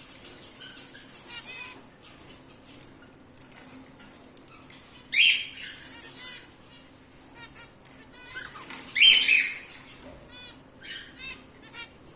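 Cockatiels calling: two loud, shrill squawks about five and nine seconds in, over faint, repeated chirping from other birds.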